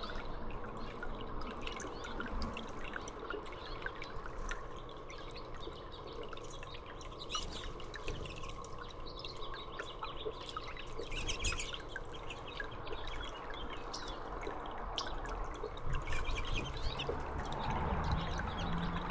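Water dripping and trickling steadily, with scattered short, high chirps from small birds.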